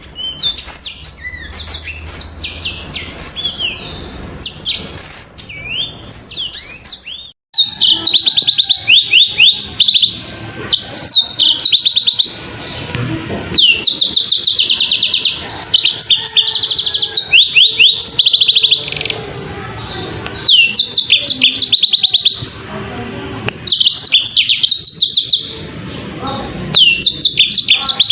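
Yellow-fronted canary (Mozambique canary) singing: fast trills of high repeated notes and quick sweeping notes in phrases broken by short pauses. About seven seconds in the song suddenly becomes much louder and clearer.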